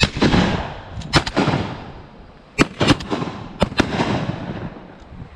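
A volley of shotgun shots from several hunters, about six in four seconds, some close together, each followed by a rolling echo.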